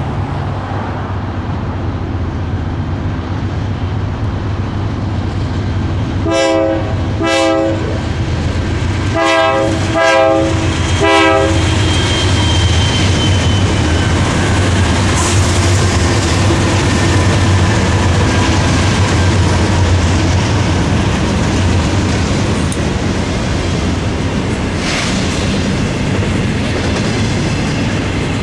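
BNSF container train's diesel locomotive sounding its air horn in five short blasts, about six to eleven seconds in, over the steady rumble of the diesel engines and the wheels on the rails.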